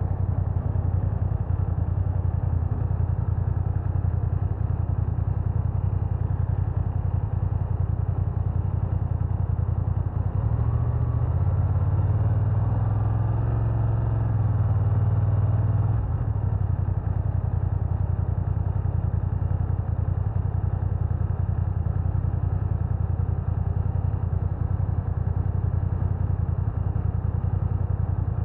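BMW F900R's parallel-twin engine running under a ride as a steady low rumble. From about ten seconds in, the engine note rises and shifts in steps for several seconds, then settles back.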